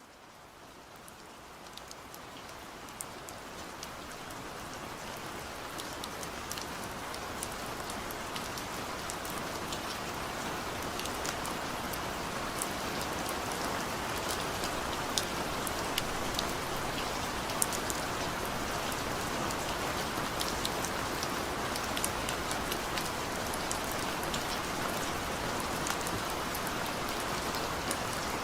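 Steady rainfall: a dense hiss of rain with individual drops ticking sharply through it. It fades in over the first several seconds, then holds steady.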